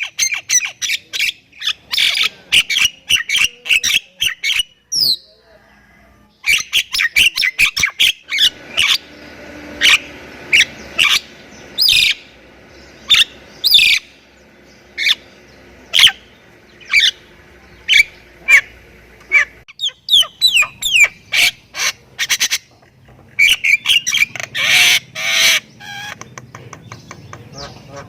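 A Javan myna-type bird (jalak kebo) singing loudly in rapid runs of sharp clicks, whistles and squawks, with a short pause about five seconds in. It is in full song, mixing in calls it has learned.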